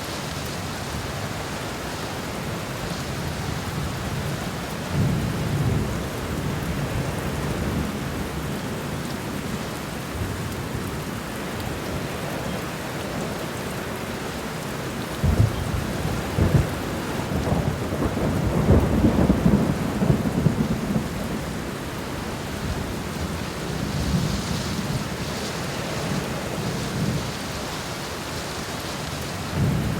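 Steady rain falling on the ground in a garden, with low rumbling swells that come and go through it, loudest in the middle with two sharp jolts.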